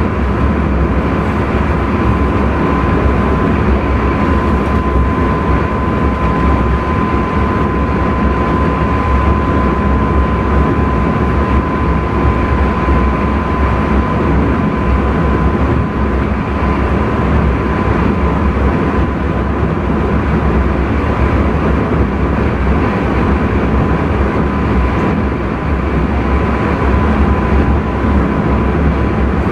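Intercity train running at speed, heard from inside the driver's cab: a steady rumble and rushing noise. A thin high whine sits over it, clearest in the first half and growing fainter later on.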